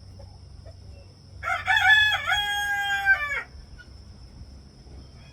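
A rooster crowing once, about two seconds long, starting about a second and a half in.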